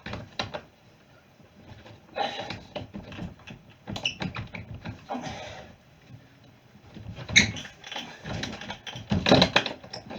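Irregular knocks, clatter and short scraping noises of things being handled and moved in a small room, with no engine running.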